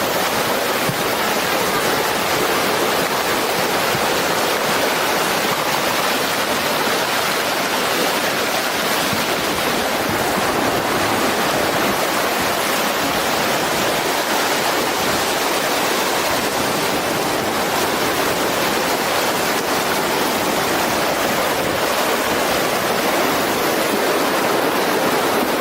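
Steady rush of fast-moving mud and floodwater from a rain-triggered debris flow, an even, unbroken noise with no let-up.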